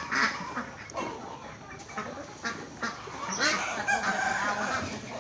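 Farmyard flock of poultry and ducks calling, many overlapping short calls, thickest about three and a half seconds in.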